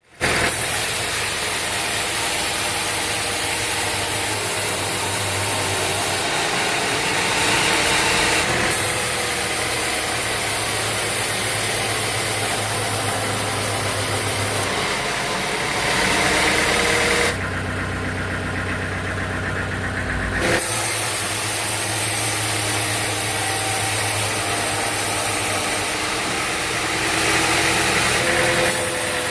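Sawmill machinery running steadily: an engine with a whine that slowly drifts up and down in pitch, its sound changing abruptly a few times.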